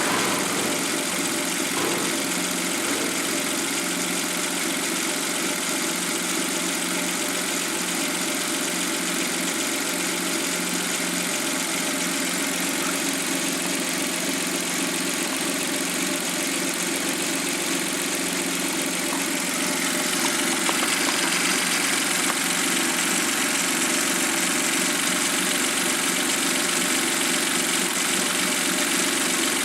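Suzuki K6A three-cylinder engine from a JB23W Jimny running steadily at idle, a little louder from about twenty seconds in.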